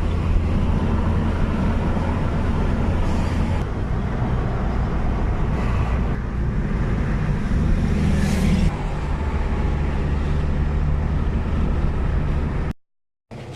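Engine and road noise of a moving road vehicle, a steady drone whose engine note shifts a couple of times. The sound cuts out briefly near the end.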